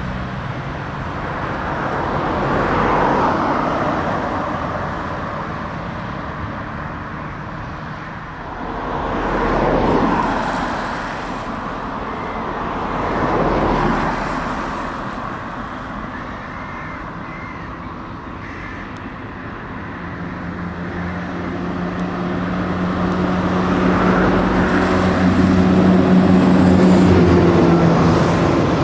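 Heavy trucks driving past one after another, then a diesel truck engine running close by with a steady low hum that grows louder toward the end.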